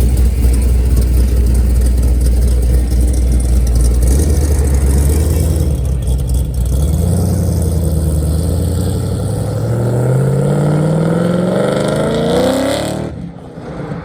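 A car engine pulling away under throttle: a heavy, deep rumble, then the revs climb steadily for several seconds before the sound cuts off abruptly near the end.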